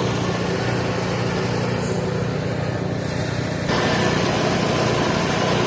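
The engine of a mobile band sawmill runs steadily with an even hum. About two-thirds of the way through, a louder hiss comes in suddenly over it.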